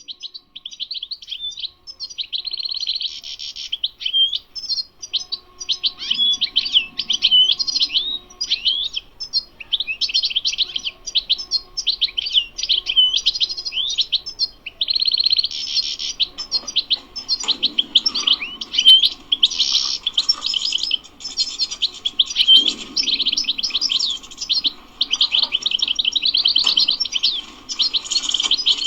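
European goldfinch singing: a long, nearly unbroken run of fast twittering notes and rapid trills, with only brief pauses.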